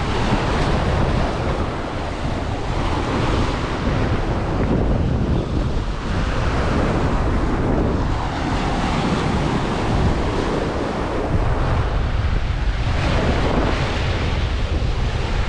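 Strong wind buffeting the microphone: a loud, steady rushing with a heavy low rumble.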